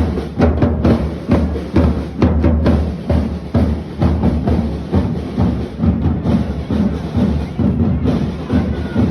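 Drum band playing live: a steady rhythm of loud drum strikes with deep bass drum beats.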